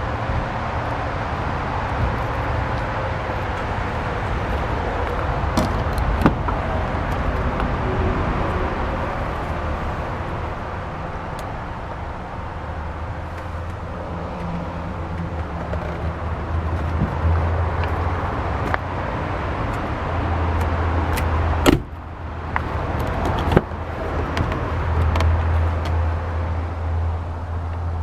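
A motor vehicle running, with a steady low hum and outdoor noise, and a door shutting with a single sharp knock about 22 seconds in.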